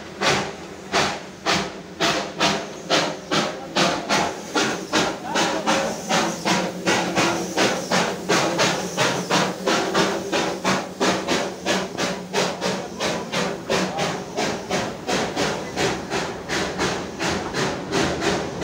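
Darjeeling Himalayan Railway toy-train steam locomotive chuffing as it pulls, the beats quickening from about two a second to nearly three a second as the train picks up speed, over a steady hiss.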